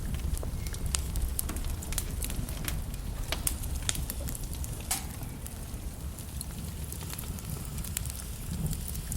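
Wood logs burning in a fireplace, crackling with many sharp pops over a low steady rumble of flames. The pops come thickest in the first half.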